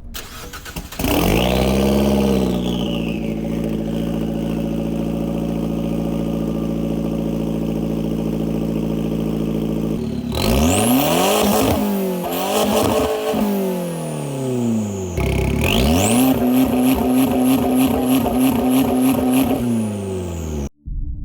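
Exhaust of a modified Abarth 500/595 with its 1.4 turbo four-cylinder, revved by a stationary car. It rises about a second in and holds steady at high revs for several seconds. Then come a few quick rev blips, and another rise that is held steady until it cuts off near the end.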